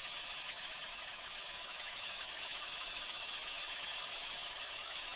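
A steady hiss, even in level, with no strokes or rhythm.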